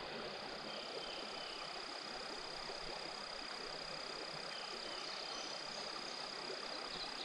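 Steady rush of flowing river water, with a thin, high, steady whine over it that cuts off near the end.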